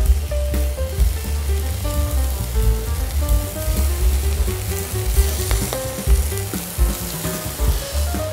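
Raw prawns sizzling in a hot frying pan as they are laid in, over background music with a steady bass beat.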